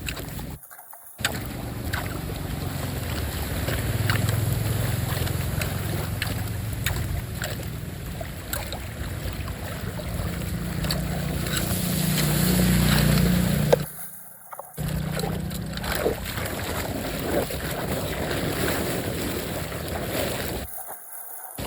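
Floodwater rushing and swirling down a drain, with wind rumbling on the microphone and scattered small clicks. The sound cuts out briefly three times.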